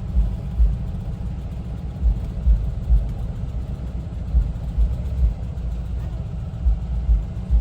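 1974 Volkswagen Westfalia camper's air-cooled Type 4 flat-four running while the van drives, a steady low rumble with irregular low thumps.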